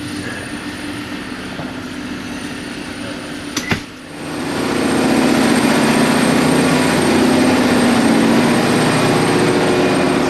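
Steady hum of ship's machinery. About four seconds in there is a single sharp clunk, after which the machinery noise swells much louder as the engine room opens up, settling into a loud, steady drone with a low hum.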